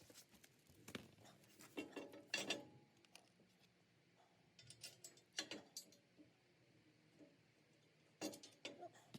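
Faint, scattered metallic clicks and clinks of hand tools and bolts in a few short clusters, about two seconds in, around five seconds and near the end, as a backhoe subframe is bolted onto a compact tractor.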